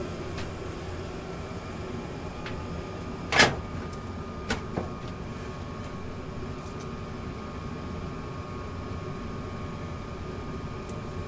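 Gas furnace running steadily after ignition, a continuous hum with a few steady tones. There is one sharp knock about three and a half seconds in, followed by two lighter clicks about a second later.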